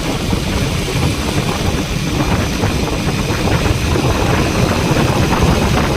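Vehicle engine running on the move, a loud steady rumble mixed with road noise.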